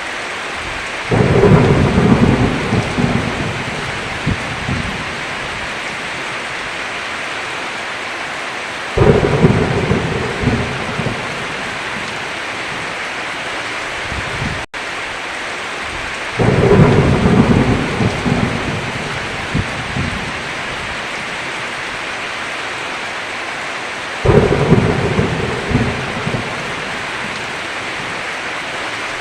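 Steady heavy rain with four rolls of thunder, one every seven or eight seconds, each breaking loudly and then rumbling away over a few seconds. The sound cuts out for an instant about halfway through.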